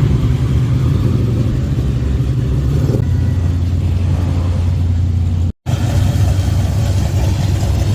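Classic car engines running as the cars drive slowly past, a deep steady exhaust rumble. The sound cuts out for a split second a little over halfway through, then resumes.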